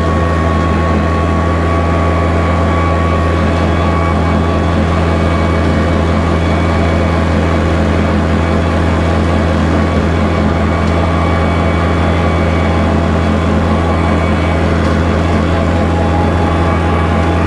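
Kubota tractor's diesel engine running steadily under load while bush hogging, with the rotary cutter's steady whine over the low engine drone.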